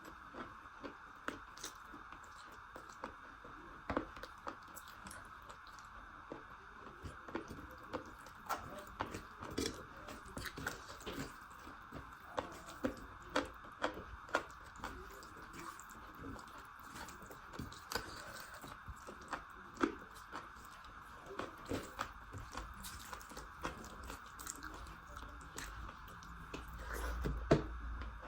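Close-miked chewing and mouth sounds of a person eating rice and chicken, with irregular wet smacks and clicks over a steady hiss. A louder low thump comes near the end.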